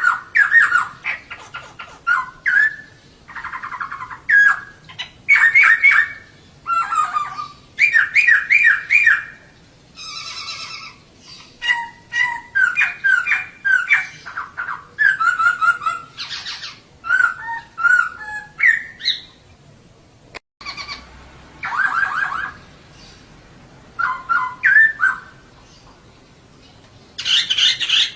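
Female poksay (laughingthrush) singing: a run of short whistled and chattering phrases, repeated with brief pauses between them. About two-thirds of the way through the sound drops out for a split second.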